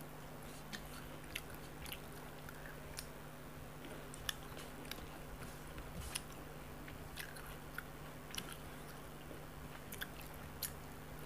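Faint, scattered wet mouth clicks and smacks of a person chewing a mouthful of rice and parshe fish (mullet), roughly one a second, over a low steady hum.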